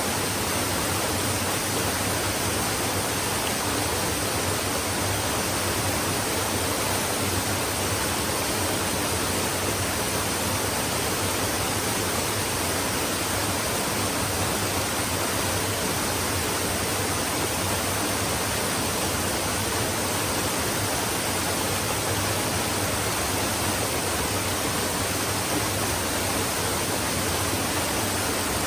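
Flowing stream rushing steadily, an even hiss of water with no let-up.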